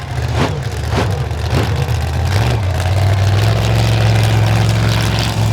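Monster truck engine blipping the throttle three times in quick succession, then running loud and steady at high revs.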